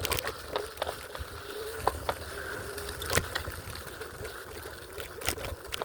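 Electric scooter running under its own power: a faint steady motor whine, with the wheels clicking and rattling over rough, rocky ground.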